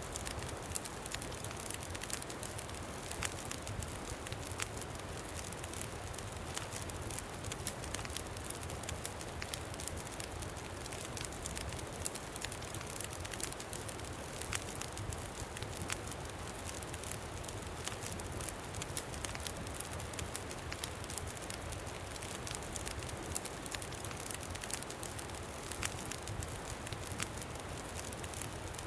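Campfire crackling, with frequent sharp pops and snaps, over a steady low rush of wind.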